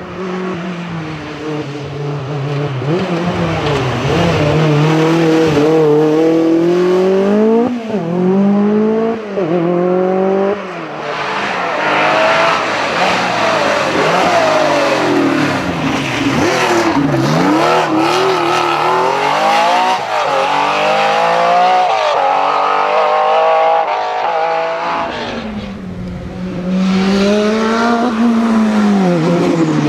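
Rally car engines at full throttle, the pitch climbing and then dropping sharply again and again with gear changes and lifts, several times over.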